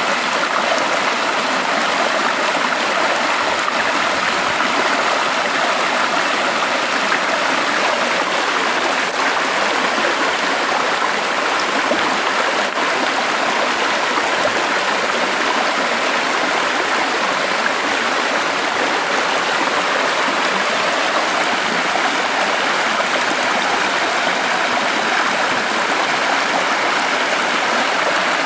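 Stream water flowing steadily, an even rushing and babbling without a break.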